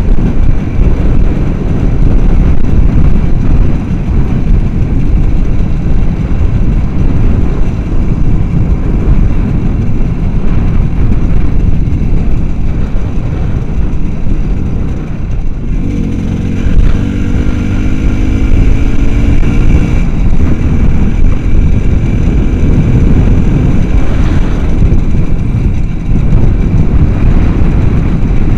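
Small motorcycle engine running on the move, under a heavy rumble of wind on the microphone. A little past halfway the engine note climbs as it accelerates.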